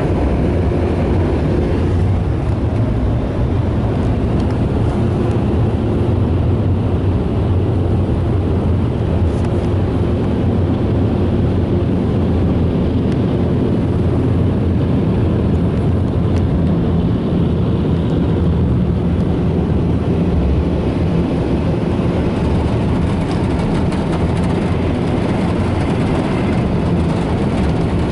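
Ryko Softgloss Maxx 5 car wash dryer blowers blasting air over the car, heard from inside the cabin as a loud, steady rush of air with a low hum.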